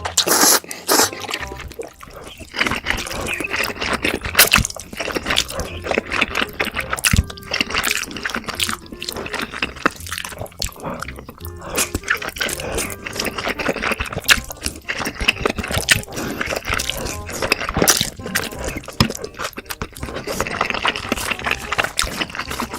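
Close-miked slurping of noodles and wet chewing, a dense run of small smacks and clicks, over background music.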